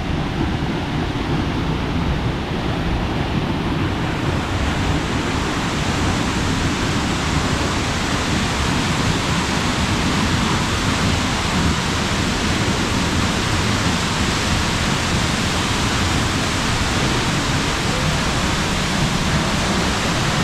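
Steinsdalsfossen waterfall's falling water, a loud, steady rushing noise that turns brighter and hissier about four seconds in.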